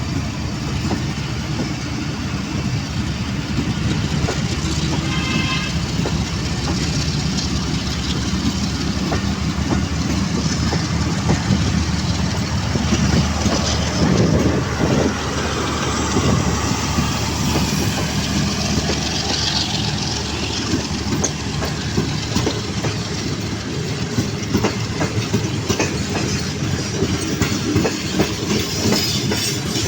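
Passenger train coaches rolling past at speed, a steady rumble with wheels clicking over the rail joints.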